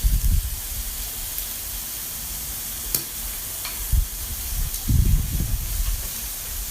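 Pork belly sizzling on a hot tabletop grill-and-hotpot pan, a steady hiss, with a few dull low thumps near the start and around four and five seconds in.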